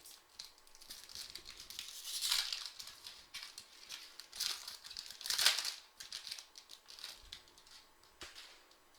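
Crinkling and rustling of a trading-card pack wrapper being torn open and handled. It is loudest about two and a half and five and a half seconds in and dies away near the end.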